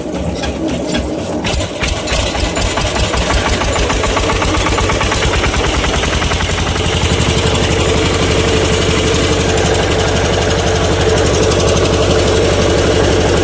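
Water-cooled generator engine starting up and coming up to speed, growing louder, then settling into a steady run about halfway in.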